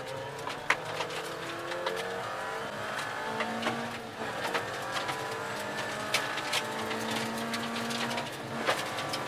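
Ford Ka rally car's engine heard from inside the cabin, accelerating hard with its pitch climbing and dropping back at each gear change, with sharp clicks and knocks over it.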